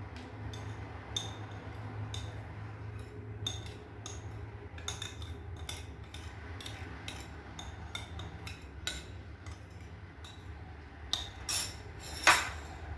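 A metal spoon clinking and scraping against glassware, irregularly and many times over, as whipped coffee-and-sugar mixture is spooned into a glass of milk and ice cubes. A louder clatter comes near the end.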